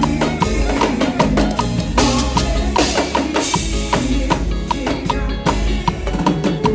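Drum kit playing a swing groove along with a band backing track, with a metronome click ticking steadily about two and a half times a second on top.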